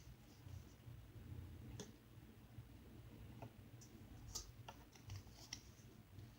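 Faint, scattered little clicks and sticky pops of slime being picked off a container lid, over a low steady hum.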